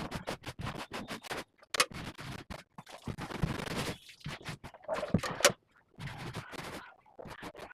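Scrubbing of a water tank during a tank wash: quick repeated scraping strokes, with a longer continuous scrub about three seconds in.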